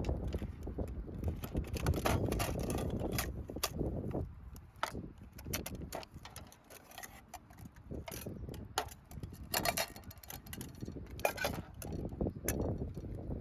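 Irregular clicks and light clinks of small hard objects being handled, over a low rumble of wind noise.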